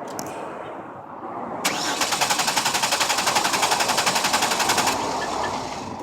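Chevrolet Venture's 3.4-litre V6 cranking on the starter with a quick, even beat for about three seconds and not firing, then stopping. A no-start with no fuel pressure showing on the gauge, which the mechanic takes for a failed fuel pump.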